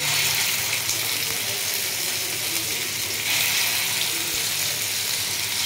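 Marinated chicken strips sizzling in hot oil in a ridged grill pan, a steady hiss that swells briefly a little past the middle.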